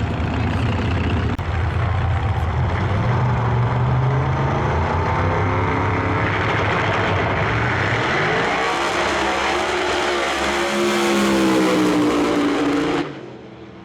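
Two no-prep drag cars, one a twin-turbo Chevy Nova, running low and steady on the line, then launching and accelerating down the strip with the engine pitch climbing from about eight seconds in. The sound cuts off suddenly near the end.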